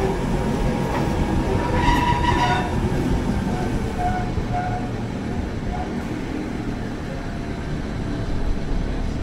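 Mountain railway train running downhill, heard through an open carriage window: a steady rumble of wheels on rails, with a brief high squeal about two seconds in.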